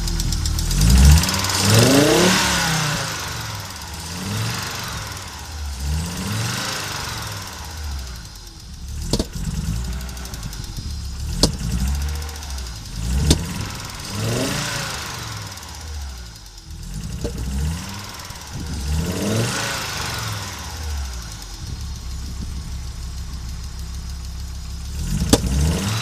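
Audi Coupe's 2.3-litre five-cylinder AAR engine running unevenly and revved up and down about six times, with a few sharp cracks among the revs: the engine is misfiring.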